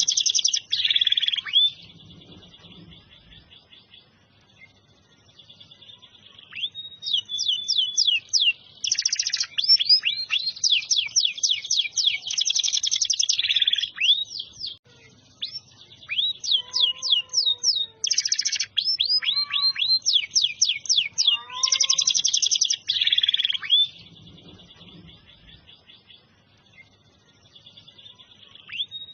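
Domestic canary singing in long phrases of rapid, repeated high chirps and trills, with pauses of a few seconds between phrases.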